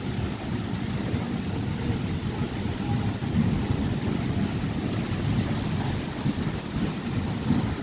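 Heavy rain falling steadily onto a flooded street, with a low rumble from wind on the microphone.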